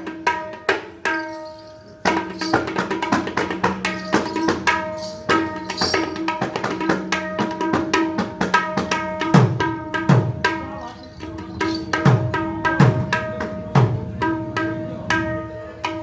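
Mridanga barrel drum played in a fast, dense stream of ringing, pitched strokes. Several deep bass strokes slide down in pitch, mostly in the second half.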